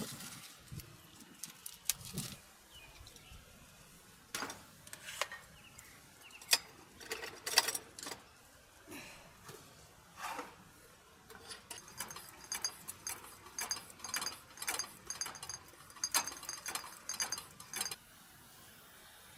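Scattered light clicks and knocks of small hard objects being handled, becoming a quick run of high ringing clinks in the last third.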